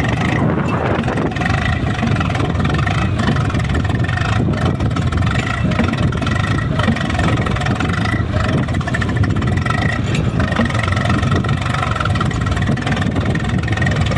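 Swaraj 735 FE tractor's three-cylinder diesel engine running steadily under way, with a faint high whine over the engine.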